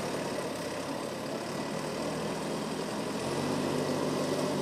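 A vehicle engine running steadily, its low hum growing stronger about three seconds in.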